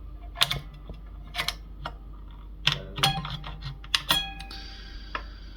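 Irregular clicks and clinks of small metal tools being handled and rummaged through on a workbench, two of the knocks about three and four seconds in leaving a brief ringing tone.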